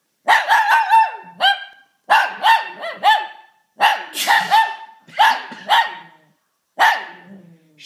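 Small shih tzu barking in short, high-pitched barks, several in quick runs of three or four, in about six bursts with short pauses between them.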